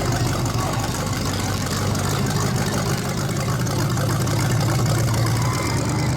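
A large vehicle engine idling steadily.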